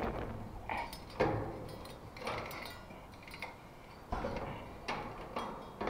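Scattered small clicks and knocks, roughly one a second, from hands working loose metal ceiling-fixture hardware.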